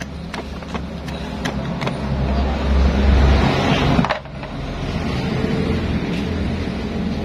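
Yamaha Nmax scooter engine being started on its electric starter and then running steadily.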